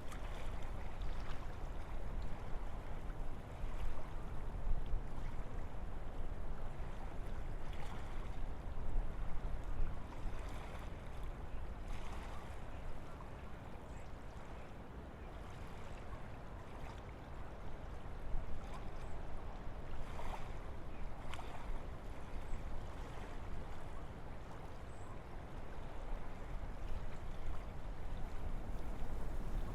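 Wind blowing through forest trees: a steady rushing with a deep rumble underneath, swelling and easing in gusts, with a calmer lull about halfway through.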